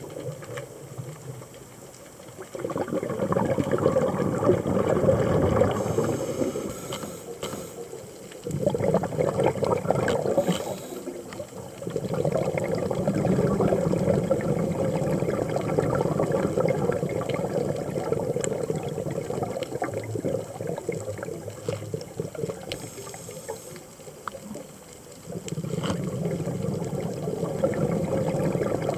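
Underwater scuba breathing: a diver's exhaled bubbles bubbling from the regulator in long bursts, with quieter pauses in between for the in-breath.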